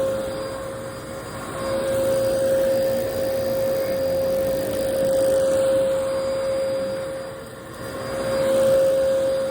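Vacuum cleaner running with a steady whine over a rushing hiss. It grows louder and softer in slow swells, dipping near the end and then rising again.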